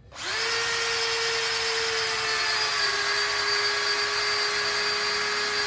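Electric drill spinning the oil pump of a rebuilt Chrysler 318 V8 through a priming tool, building oil pressure to pre-lube the engine. It spins up quickly, then holds a steady whine that drops slightly in pitch about three seconds in.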